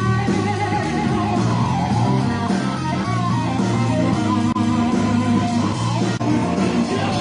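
Rock music on electric guitar and bass guitar, playing steadily.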